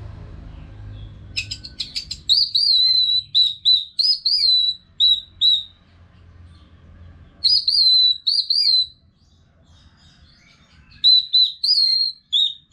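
Orange-headed thrush singing loud, repeated, arching whistled notes in three bursts with short pauses between them.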